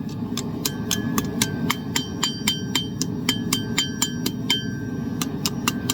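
Hand hammer striking a steel spoon blank on an anvil at black heat, a steady run of about four blows a second, each blow ringing briefly.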